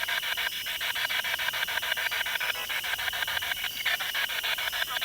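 Spirit box radio sweep: fast choppy static stepping through stations about ten times a second, with no clear word coming through.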